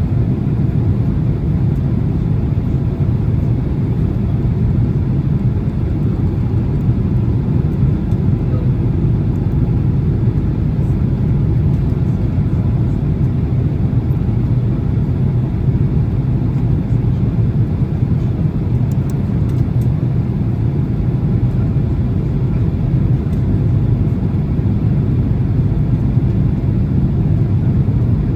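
Boeing 767-300 cabin noise in flight: a steady, loud, low rumble of engines and airflow heard from inside the passenger cabin, with a few faint ticks about two-thirds of the way through.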